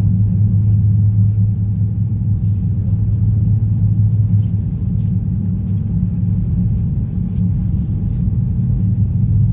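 Passenger train running at speed, a steady low rumble heard from inside the carriage.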